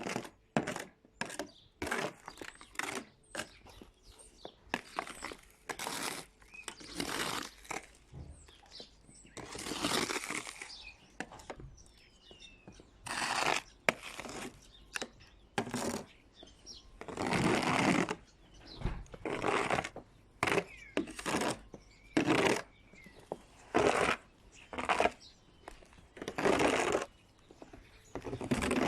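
Snow being swept off a car in a long series of irregular strokes, each a short scraping swish, some brief and some drawn out over a second or more.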